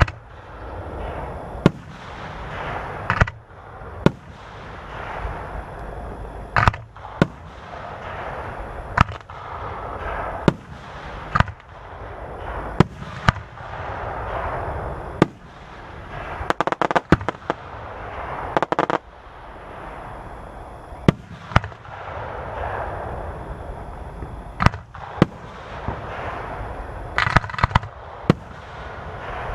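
Aerial fireworks bursting one after another, a sharp bang every second or two, with rapid strings of cracks at times and crackling and rumbling between the bangs.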